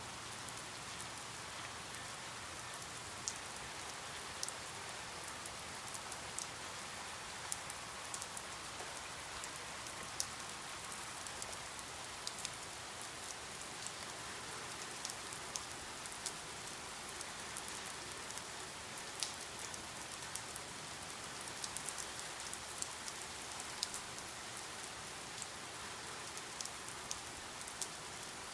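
Steady rain falling, an even hiss with many sharp individual drops ticking on a hard surface.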